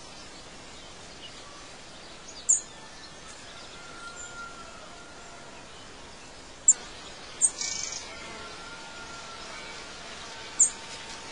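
Outdoor ambience of birds: a few short, sharp, high-pitched chirps spread over several seconds, two of them close together in the middle, over a steady soft hiss with faint whistled calls.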